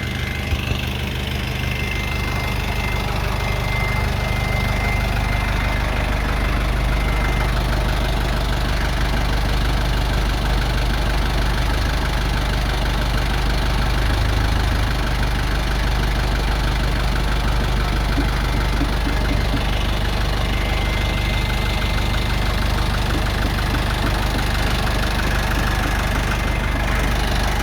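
Excavator's diesel engine running steadily, with a faint high whine that comes and goes.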